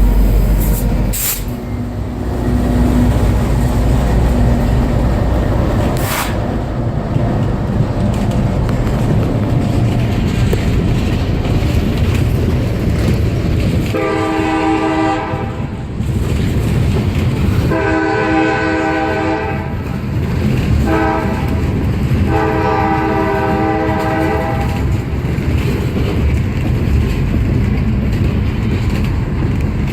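Two CSX diesel locomotives rumbling past at slow speed. About 14 seconds in, the air horn sounds the grade-crossing signal: two long blasts, a short one and a long one.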